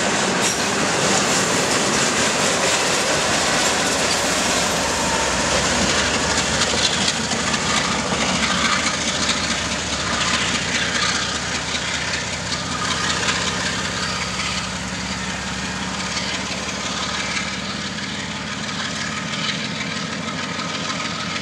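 Double-stack freight cars running past on the rails with a steady rolling rumble, then the train's rear pusher locomotive, a GE ES44 diesel, coming up, its low engine drone growing clearer in the second half.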